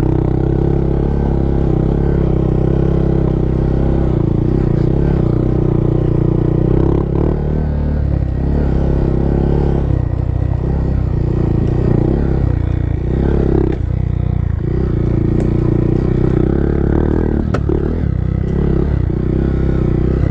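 Honda Monkey's single-cylinder engine running as the bike rides a rough, overgrown trail, the throttle opening and easing off several times, with clatter from the bike over the bumps and a sharp knock near the end.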